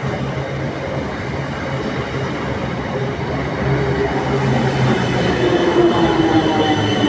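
Train running on the track with a steady rumble that grows louder, and squealing wheels setting in about four seconds in, their high tones sliding slowly down in pitch.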